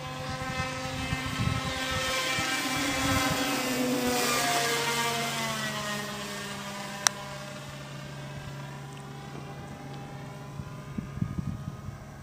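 Motor and propeller of a home-built PVC radio-controlled airplane on its landing approach, growing louder and dropping in pitch as it passes by, then fading away. A single sharp click about seven seconds in.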